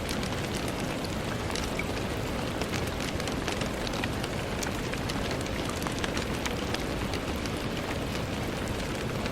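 Steady rain falling on a window pane: an even hiss with many separate drops ticking against the glass at irregular moments.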